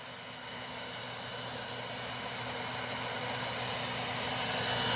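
Leaf blower running steadily, a rushing air noise with a motor whine, getting gradually louder.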